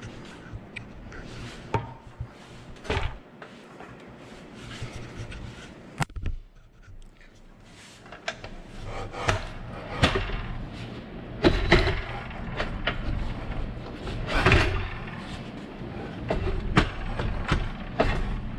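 Irregular clunks, knocks and scraping of a sliding miter saw and its metal mounting brackets being handled and fitted onto the rails of a miter saw stand. There is a sharp click about six seconds in, and the handling is busier and louder in the second half.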